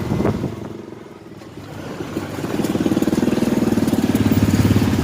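Motorcycle engine of a tricycle running. It drops off about a second in, then builds back up to a steady, fast-pulsing run from around the middle.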